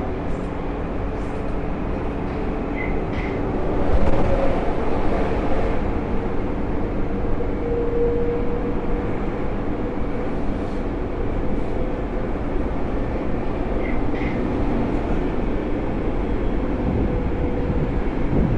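Alstom AS-02 metro train running, heard from inside the car: a steady rumble of wheels and running gear with a faint steady hum. Two brief pairs of small high clicks come about three seconds in and again near fourteen seconds.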